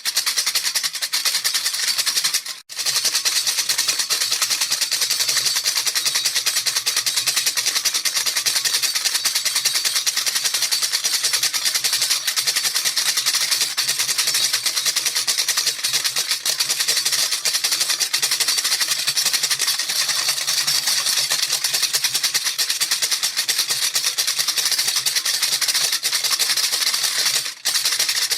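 Baby rattle shaken rapidly and continuously, a dense hissing rattle of beads. It breaks off for a moment about two and a half seconds in and again near the end.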